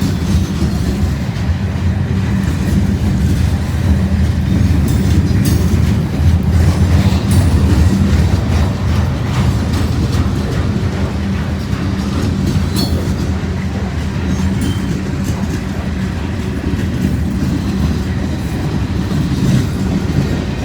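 CSX freight train's cars rolling steadily past, a continuous low rumble with a few faint clicks of wheels over the rail.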